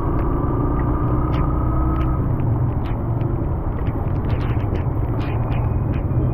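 Vehicle driving in the rain: steady low engine and road rumble, with scattered light ticks of raindrops. A faint whine rises slightly and fades about two seconds in.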